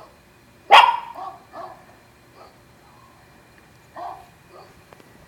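Dogs barking: one loud, sharp bark under a second in, then several fainter barks spread through the rest.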